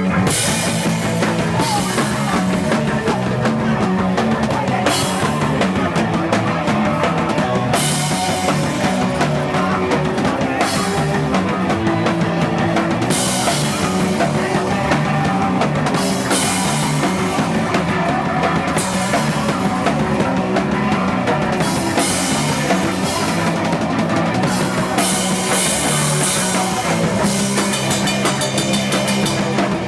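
Live rock band playing loud, led by a full drum kit whose cymbals come in right at the start.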